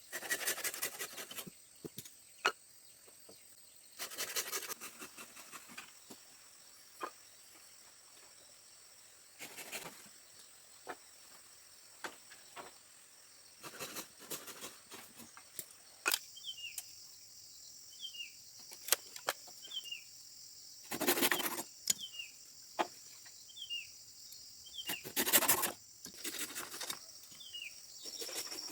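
Steady high-pitched insect buzz, with a bird giving short falling calls again and again in the second half. Short bursts of scraping and sharp knocks break in every few seconds, the loudest near the start, about 21 s and about 25 s in.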